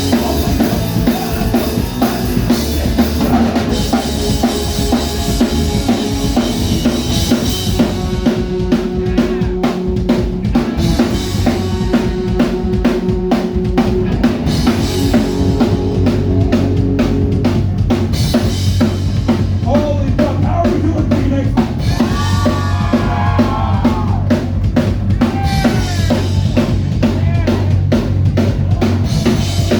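Live band playing loud with no singing: a drum kit drives a steady beat of bass drum and snare hits under sustained bass and guitar notes, with a few bending high notes a little past the middle.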